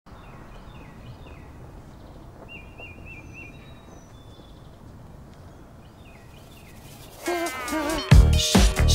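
Outdoor ambience: a low steady rumble with small birds chirping in short repeated phrases. Music comes in near the end, first a wavering pitched line and then, about a second later, a loud heavy beat.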